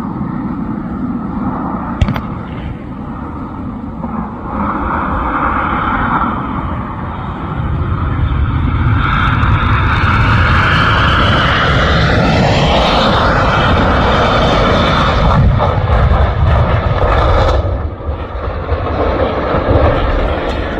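Airliner engine noise, loud and continuous, swelling from about eight seconds in, with a falling whine near the middle as the aircraft passes, and a sharp click about two seconds in.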